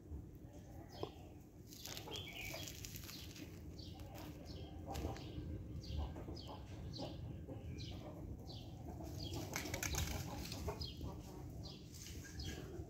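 Birds chirping over and over, short high calls that fall in pitch, a couple each second, over a steady low rumble.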